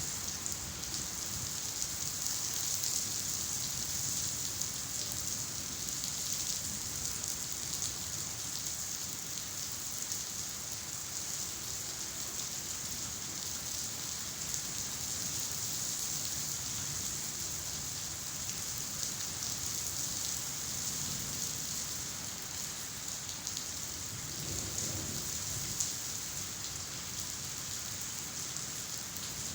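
Steady rainfall, an even hiss of drops on surfaces. A low thunder rumble rises briefly about four-fifths of the way through.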